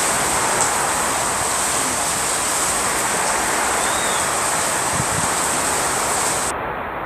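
Strong wind blowing, a steady rushing noise that turns suddenly duller about six and a half seconds in.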